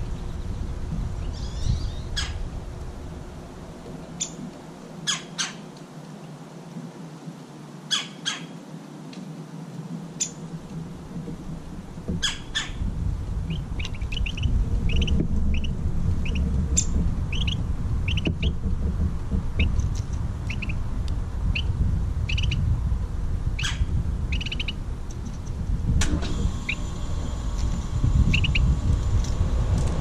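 Small songbird calling with short, sharp chirps: a few scattered loud ones in the first half, then about one a second through the second half, over a steady low rumble.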